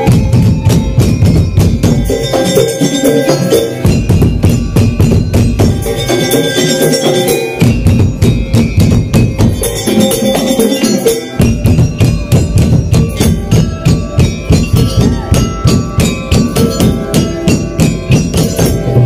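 Madurese daul (tong-tong) ensemble playing a fast, dense rhythm on drums and knocked percussion, with a melody on tuned metal chimes. The pattern changes about eleven seconds in.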